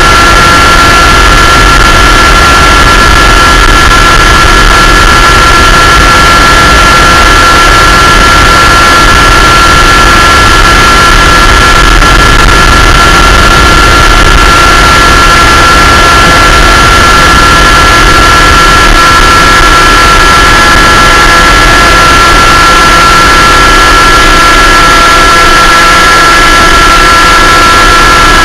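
Aircraft engine running at steady power in flight, very loud on the microphone, a constant whine over a rushing noise.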